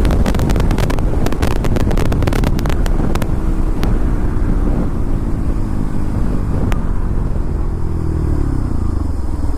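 Bajaj NS200 single-cylinder engine with an Akrapovic exhaust at top speed, stuttering rapidly against its limiter at about 149 km/h for the first few seconds. The throttle then closes and the engine note falls steadily as the bike slows, under heavy wind rumble.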